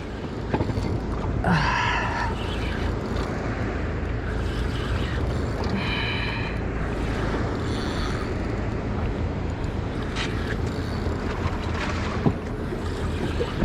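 Steady wind noise on the microphone and water washing around a small fishing boat, with two short high-pitched sounds about two seconds in and again about six seconds in.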